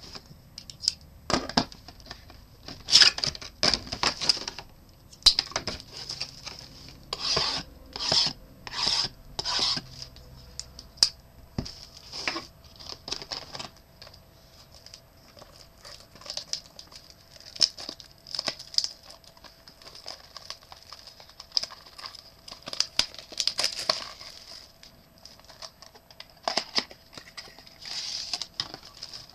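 Trading card box and pack wrappers being torn open and handled: a string of short, irregular rips and crackles with brief pauses between them.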